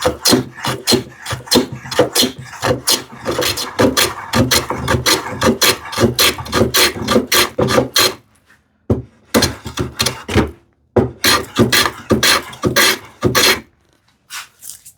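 Hand plane set for a heavy cut, shaving wood in rapid repeated rasping strokes, several a second, to flatten a heavy undulation. The strokes run without a break at first, then come in short runs with brief pauses in the second half.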